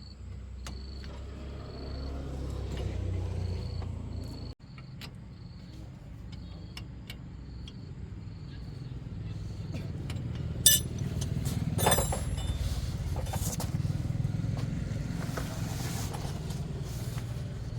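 A car engine running with a steady low rumble, briefly cut off about four and a half seconds in. Two sharp metallic knocks come about eleven and twelve seconds in.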